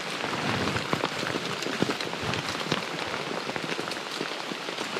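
Heavy rain falling on a tent's nylon rain fly, a steady hiss dotted with sharp close drop strikes.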